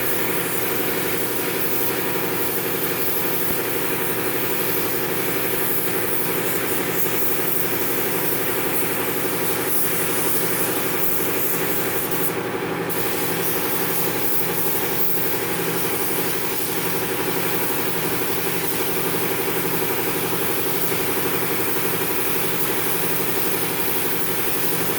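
Spray-painting equipment running: a steady machine hum with a regular pulse about twice a second, under a hiss of spraying air that stops briefly about halfway.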